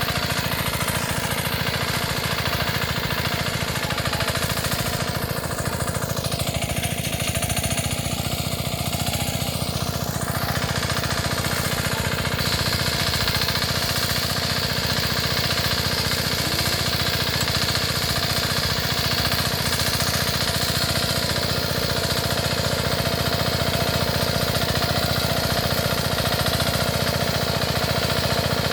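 Power tiller's 5-horsepower air-cooled engine running steadily, with a rapid, even beat of firing strokes.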